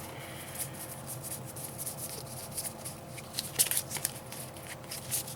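Cardfight!! Vanguard trading cards being handled and sorted: a string of light, irregular card clicks and slides, over a faint steady hum.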